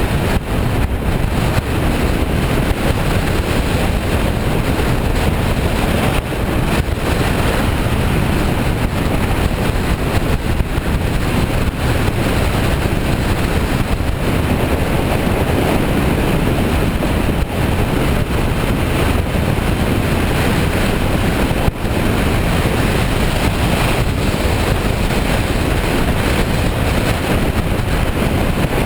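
Heavy wind noise buffeting the microphone while riding a 2008 Kawasaki Versys 650 motorcycle: a loud, steady rush that never lets up.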